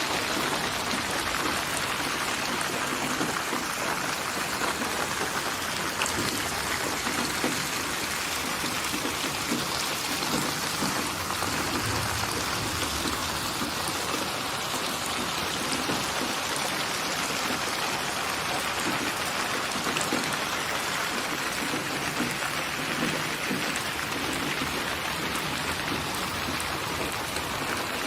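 Steady rain falling on a surface, a dense even patter of drops with scattered sharper drips.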